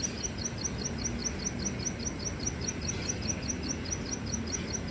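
Small wild klik-klik bird calling: a fast, even series of high chirps, about eight a second, kept up steadily.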